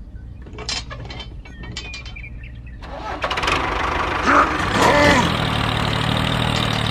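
A few faint clicks, then an engine starting up about three seconds in and running steadily.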